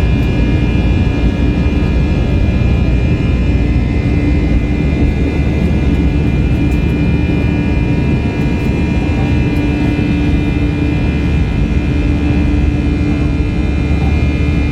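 Airbus A321's jet engines running steadily, heard from inside the passenger cabin: a loud, even rumble with several steady whining tones held over it.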